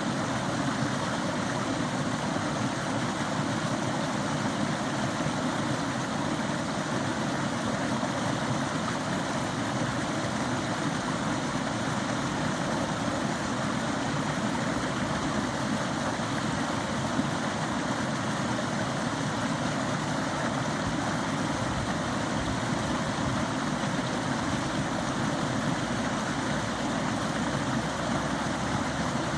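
Small woodland stream, water running and splashing steadily with no break.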